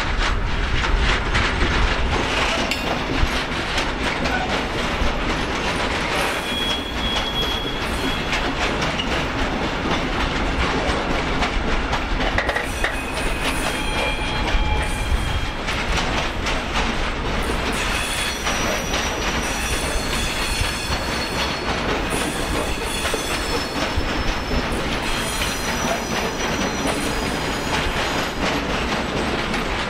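A train of open freight wagons rolling steadily past close by, its wheels clicking over the rail joints, with high-pitched wheel squeal that comes and goes, more often in the second half.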